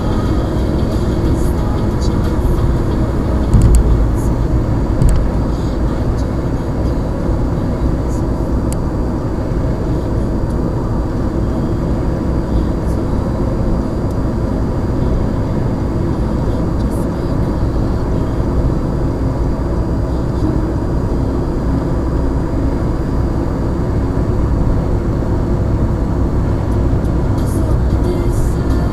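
Blizzard wind blowing hard across the microphone: a steady low rumble, with heavier gusts about three and a half and five seconds in.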